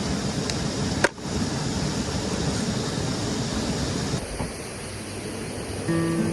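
Steady rushing of a stream's flowing water, with one sharp click about a second in. Background music comes in near the end.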